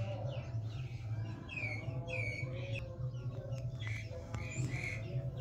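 Birds chirping in many short, falling calls, over a steady low hum.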